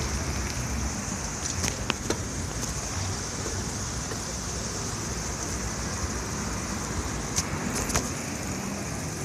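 Steady ride noise while cycling: a low fluttering rumble of wind on the microphone and tyre noise, with a steady high hiss and a few short sharp clicks.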